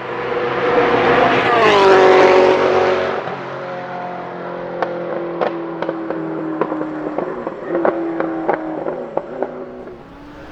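Ferrari F40 LM's 2.9-litre twin-turbo V8 comes past loud, its note falling as it goes by. It then runs on at a lower, steadier pitch with a string of sharp pops and crackles from the exhaust.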